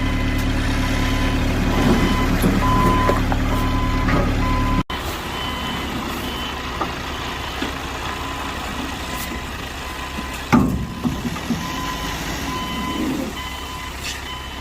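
Excavator diesel engine running with its warning alarm beeping in short repeated tones. About five seconds in, a cut drops to a quieter engine sound, with a knock or clank a little past ten seconds.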